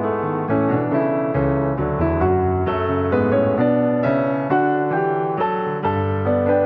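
Piano music: a steady run of notes and chords.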